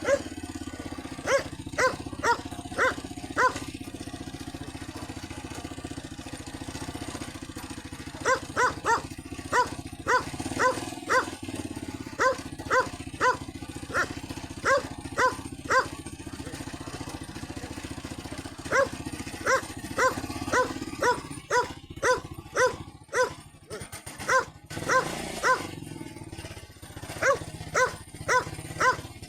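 A homemade tractor's engine running steadily, under a dog barking loudly in repeated bouts of several barks, about two a second.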